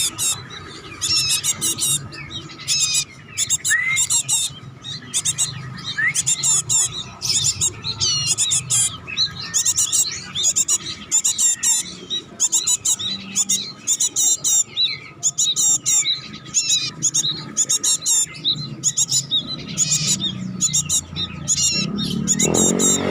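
Young bar-winged prinia (ciblek) chirping and twittering rapidly and almost without pause, in high, quick notes.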